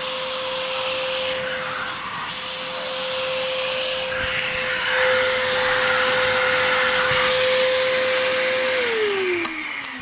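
Arnica Hydra Rain Plus washing vacuum cleaner running for wet cleaning: a steady motor whine under rushing suction air that swells and fades as the nozzle works. Near the end the motor is switched off, with a click, and its whine falls as it spins down.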